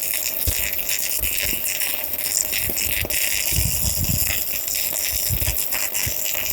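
Steady crackle and hiss of a KAZAKI MMA-250ZEN3 mini inverter stick welder's arc as a 2.5 mm electrode runs a bead on steel. The arc is burning evenly.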